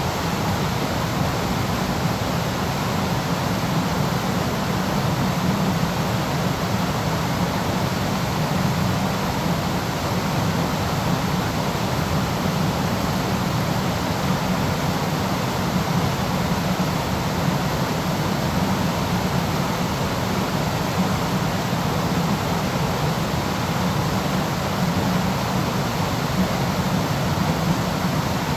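Waterfall rushing steadily, an even unbroken noise with most of its weight in the low range.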